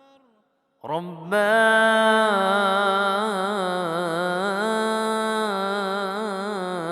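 A man's voice chanting an Islamic ibtihal: after a short break, a long, held melismatic line starts about a second in, its pitch wavering in quick ornamental turns without pausing for words.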